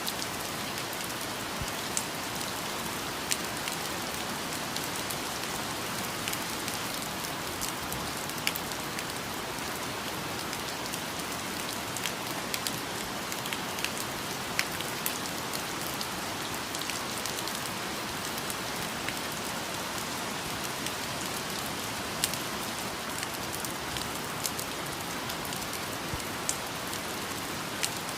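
Steady rain falling on foliage, an even hiss with scattered sharper drips of individual drops.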